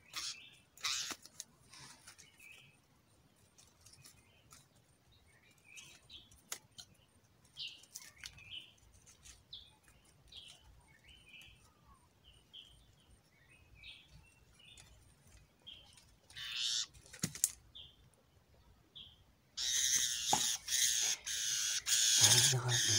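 Short, scattered bird chirps with rustling and light clicks of handling at a bamboo basket trap. Near the end a loud, harsh, rapidly pulsing rasp starts abruptly and keeps going.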